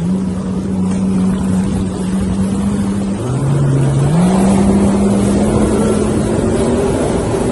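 Jet ski engine running over a steady rush of noise. About three seconds in its note drops for about a second, then climbs back and keeps rising slowly as the throttle opens.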